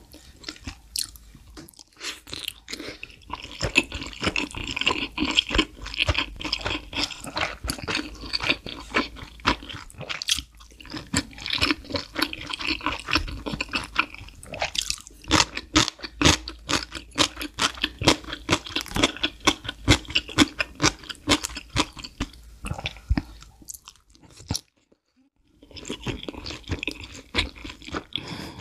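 Close-miked mouth sounds of eating: wet chewing of saucy noodle-and-enoki-mushroom wraps, with crisp crunching as a slice of pickled radish is bitten about halfway through. The eating stops briefly for a second or so near the end.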